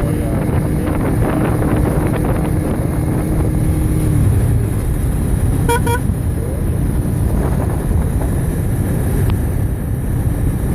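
Wind rushing over the camera microphone and road traffic noise while riding, with a steady engine hum for the first four seconds. Two short, high beeps sound about halfway through.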